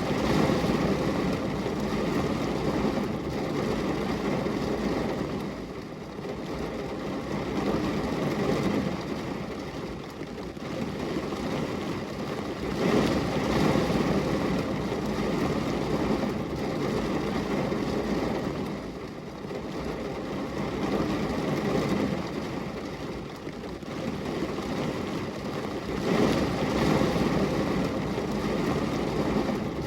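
Steady rushing rain on a glass window, deep and full-bodied, swelling and easing every five or six seconds.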